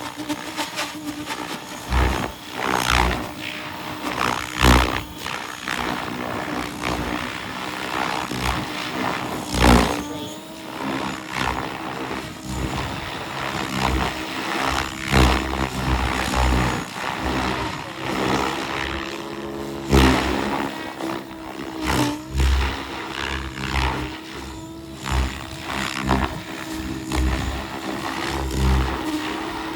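XL Power Specter 700 RC helicopter in flight, its motor and rotors running with a steady hum whose pitch shifts now and then. Gusts of wind buffet the microphone throughout.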